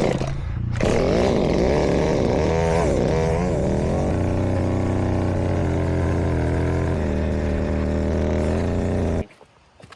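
Chainsaw engine catching on a pull, revved up and down a few times, then running steadily before cutting off suddenly about nine seconds in.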